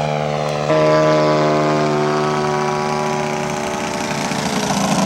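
Radio-controlled scale model airplane engine running steadily. It gets louder about a second in, then its pitch slowly sinks, and it turns rougher near the end.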